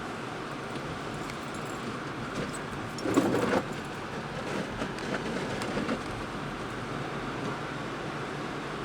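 Steady road and engine noise of a car being driven, with a louder rush lasting about half a second around three seconds in.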